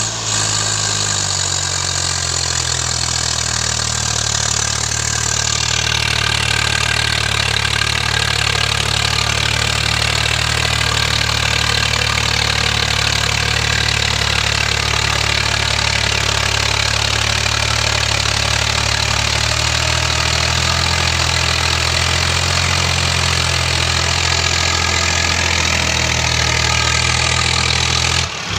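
Swaraj 855 tractor's three-cylinder diesel engine running steadily under heavy load while pulling a tiller through the soil.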